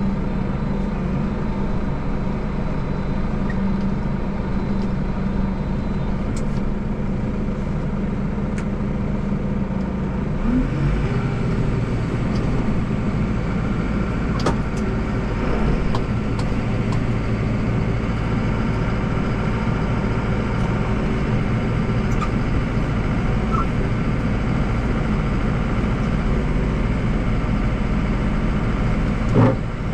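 Deutz 5120G tractor's diesel engine running steadily while driving a dual-auger snowblower through snow; about ten seconds in the engine note rises and holds higher. A short knock sounds near the end.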